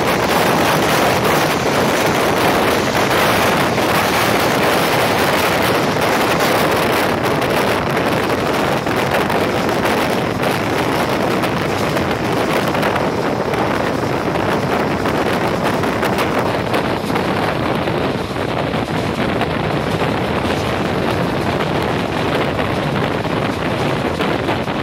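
Steady rushing noise of wind on the microphone and an express passenger train running, heard from an open carriage window. A container train passes close by on the next track in the first part. The hiss eases a little once it has gone, about halfway through.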